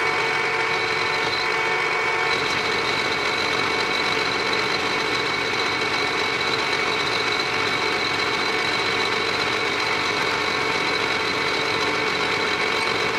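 Spindle motor of a 3-in-1 lathe-mill running steadily with a constant whine, taking another milling pass to open up the recess of a chuck backing plate.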